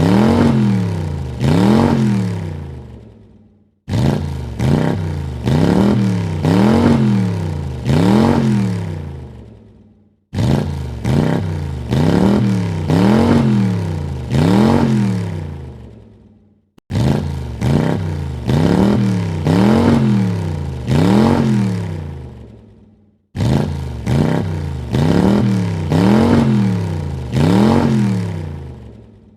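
Car engine revved in quick blips, each a rising then falling pitch, about four blips per run. The same short revving run repeats about five times, each run dying away into a brief silence.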